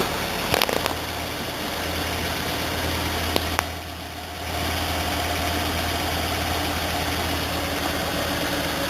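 2007 Chevrolet Impala engine idling steadily, with a few light clicks and a brief drop in level about four seconds in.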